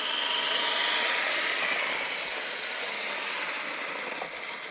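Small RC truck's brushed 370 electric motor whining at speed together with tyre noise on pavement, the whine sliding slightly lower in pitch over the first couple of seconds, then slowly fading.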